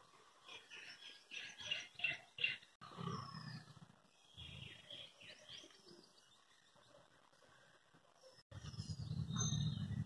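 Small songbirds chirping in quick runs of short falling notes, loudest in the first few seconds and again around the middle. A low steady rumble comes in near the end.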